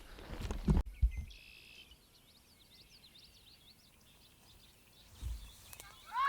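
About a second of rustling and handling noise, then quiet outdoor background with faint birds chirping. A single dull thump comes about five seconds in.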